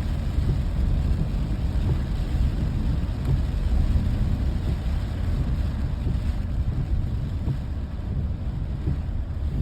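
Steady low rumbling noise with no clear pitch, fluttering constantly and mostly deep.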